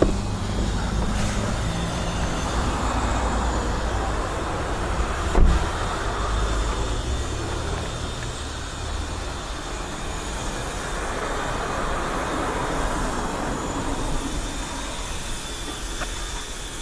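A motor vehicle running: a steady low rumble that eases off after about nine seconds, with a single knock about five and a half seconds in.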